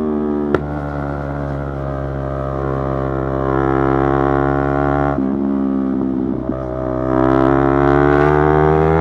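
Yamaha YZF-R3's parallel-twin engine pulling hard through the gears, its note climbing steadily. There is a sharp click about half a second in, then a gear change about five seconds in, after which the revs build again.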